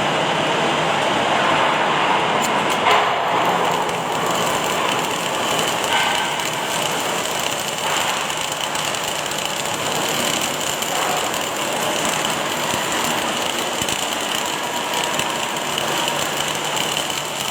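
Steady mechanical din of automatic welding machinery running on a factory floor, a continuous hissing noise with faint steady tones.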